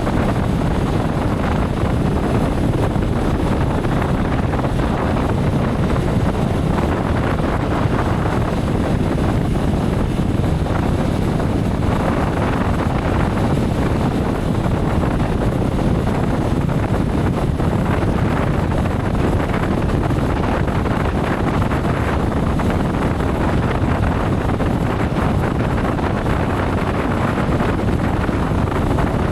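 Steady rush of wind on the microphone of a moving motorcycle, blended with engine and road noise at a constant speed.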